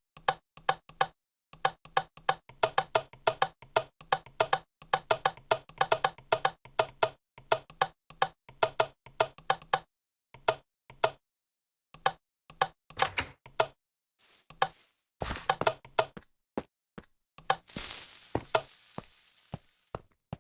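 Rapid, irregular knocking and clattering, several sharp knocks a second, thinning out after about twelve seconds. Near the end a burst of noise starts suddenly and slowly fades.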